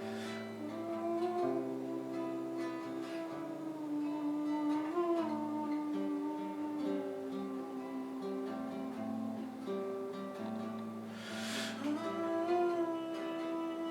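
Band music led by strummed acoustic guitar, with sustained notes and some sliding pitches, and a brief bright hiss about eleven seconds in.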